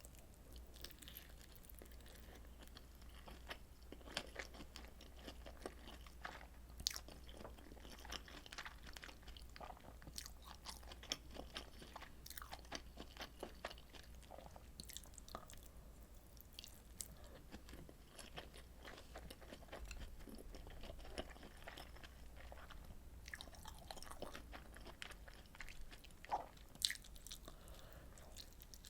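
Close-miked eating: chewing and biting of rolled omelet and pork kimchi stew, with many small wet mouth clicks and light crunches. A faint steady low hum runs underneath.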